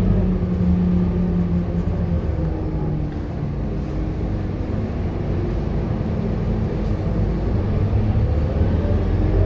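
Scania K230UB city bus's five-cylinder diesel engine running under way. The engine note eases off over the first couple of seconds, runs lower and steadier through the middle, and picks up again near the end as the bus accelerates.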